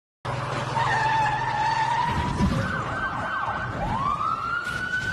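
Emergency-vehicle siren cutting in suddenly with a held tone, then a quick up-and-down yelp about halfway through, then a long rising and slowly falling wail near the end. A low steady hum runs under it for the first couple of seconds.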